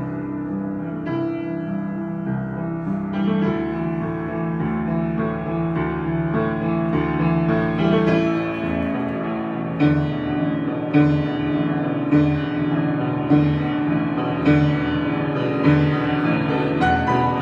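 Improvised piano music with sustained, ringing chords. About halfway through, a chord starts being struck steadily, a little more than once a second.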